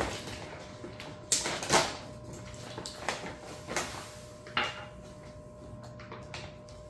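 A measuring cup knocking and clinking against a container as citric acid powder is tipped in for homemade dishwasher detergent, about five light knocks, the loudest pair between one and two seconds in.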